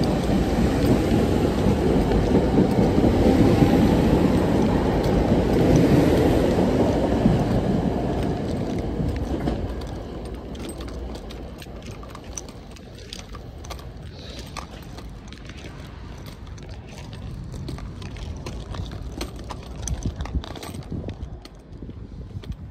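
SEPTA Regional Rail train running, a loud low rumble that fades away after about ten seconds, leaving a quieter background with scattered light clicks.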